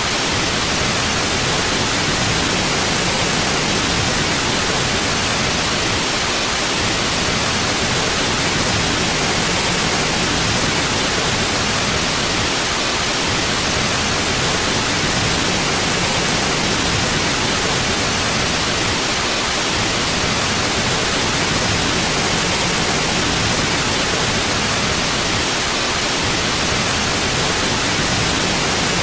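Steady, unbroken white noise: an even hiss spread across the range, with no change in level.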